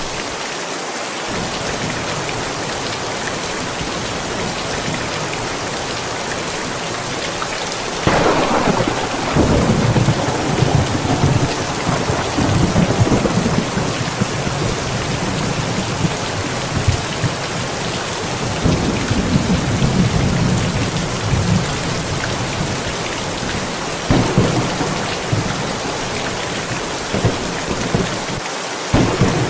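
Steady rain falling, with thunder. A sharp clap about eight seconds in rolls on as a long rumble for over ten seconds, and two shorter claps come near the end.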